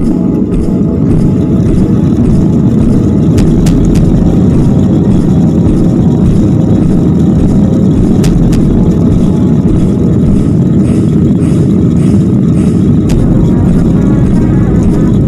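Loud, steady rumble of a Boeing 737-800's engines and airframe heard from inside the cabin, growing a little louder about a second in, with a few faint clicks and rattles.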